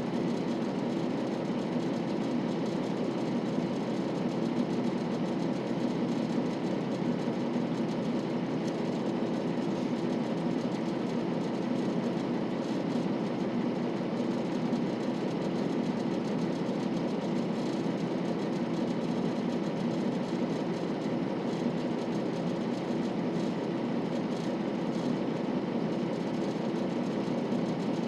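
KiHa 40 series 2000 subseries diesel railcar, its diesel engine running with a steady low hum that does not change.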